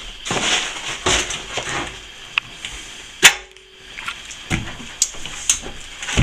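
Old plaster being knocked and scraped off a wall with hand tools: a run of scraping strokes and knocks, with one sharp metallic strike about three seconds in that rings briefly.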